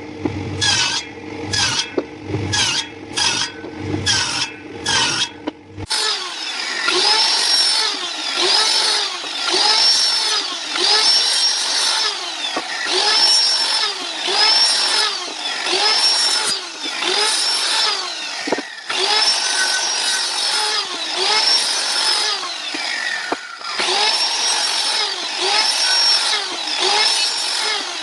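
Hand tools working wood in steady strokes. First a rasp or file scrapes the wood about twice a second. About six seconds in it changes to a hand saw cutting wood at about one stroke a second, each stroke rising and falling in pitch.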